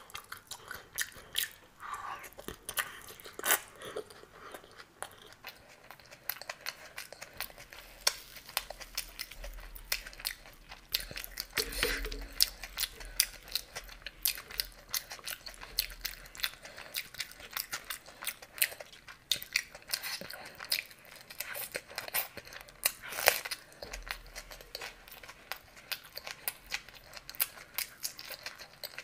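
Close-miked eating sounds of fried snacks with ghugni (spicy yellow pea curry) eaten by hand: wet chewing and crunching with a dense run of small clicks, and a brief hum about twelve seconds in.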